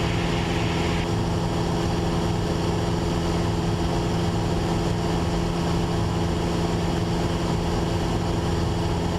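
2013 Cessna 172's Lycoming four-cylinder piston engine and propeller droning steadily in cruise flight. A band of hiss eases slightly about a second in.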